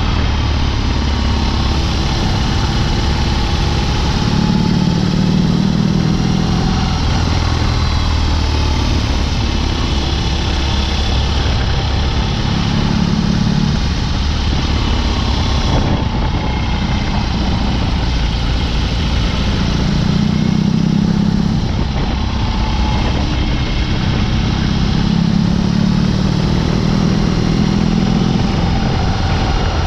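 BMW R18's boxer twin engine running through a Dr. Jekill & Mr. Hyde exhaust while riding, its deep note swelling and easing several times as the throttle changes.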